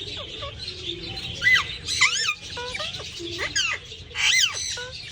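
Pet parrots squawking and chirping: a run of short calls that swoop up and down in pitch, with the loudest harsh squawks about a second and a half, two, and four seconds in.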